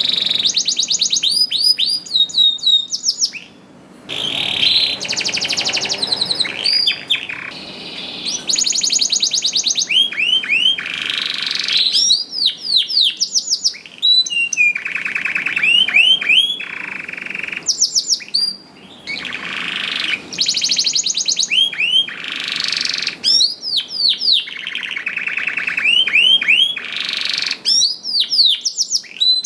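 Male domestic canary in full song, singing a long run of rapid trills and rolls broken up by quick swooping whistles, with only short pauses between phrases.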